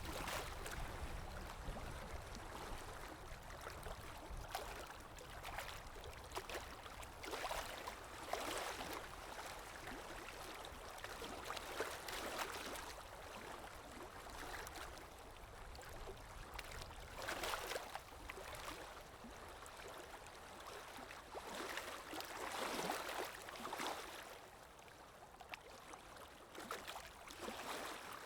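River water lapping and rippling in soft, irregular surges every second or two, with a low rumble near the start that fades away.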